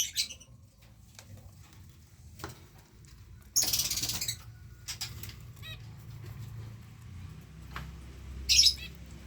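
Canary giving two short, rapid rattling trills, one about three and a half seconds in and a shorter one near the end, over a low steady hum.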